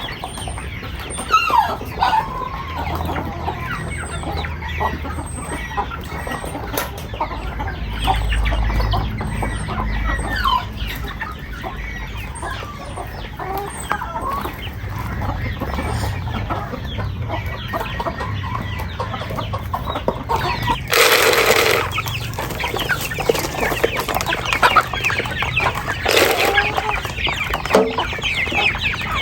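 Flock of chickens clucking, with many short calls overlapping throughout. There are two louder, harsher calls about a second long, one about two-thirds of the way in and another near the end.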